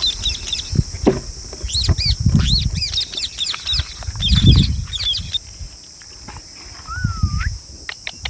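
Green parrots screeching: a rapid run of short, arching squawks from about two seconds in to just past five, then one wavy rising whistle near the end. Low thumps and rumbling run underneath.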